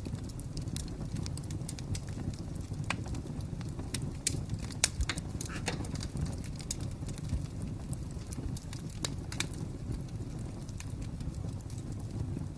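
Wood fire crackling: a steady low rumble of flame with irregular sharp pops and snaps scattered through it, the loudest snap about five seconds in.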